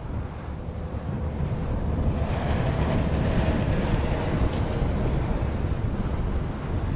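BAe 146 four-engine jet landing, its turbofans giving a low rumble with a faint high whine. The rumble grows louder about two seconds in.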